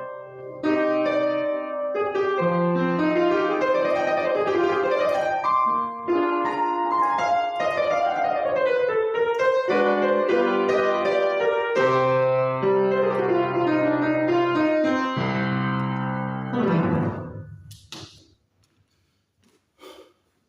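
Piano playing a flowing passage of changing notes and chords, closing with a fast descending run about three-quarters of the way in, after which the sound dies away to near silence with a couple of faint brief noises.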